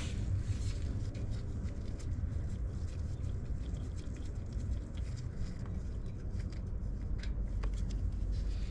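Scattered clicks and scrapes of a 16 mm socket and ratchet working the engine oil drain plug loose under a Harley-Davidson touring bike, over a steady low rumble.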